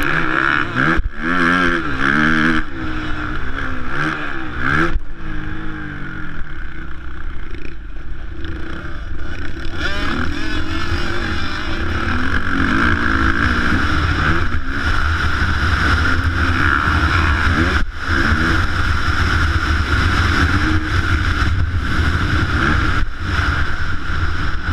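Motocross motorcycle engines revving, their pitch climbing and dropping again and again as the bikes accelerate and shift, over a steady low rumble.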